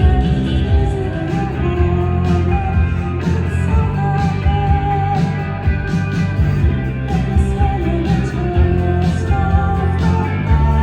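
Live rock band playing: electric guitar and bass over a heavy low end, with drum and cymbal hits and a sustained, wavering melodic line, likely a singing voice.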